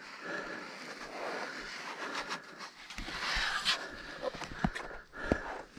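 A person breathing hard while scrambling up rock, heavy puffing breaths with a few scrapes and knocks of shoes on the stone.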